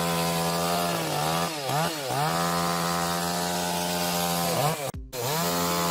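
Two-stroke chainsaw running at high revs with a steady, high-pitched note, its pitch dipping and recovering briefly a few times. The sound cuts out for a split second about five seconds in.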